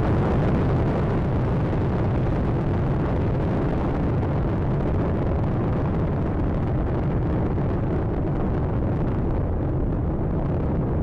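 Space Shuttle Atlantis ascending: the steady, dense rumble of its solid rocket boosters and three main engines. Its higher hiss thins out over the last few seconds.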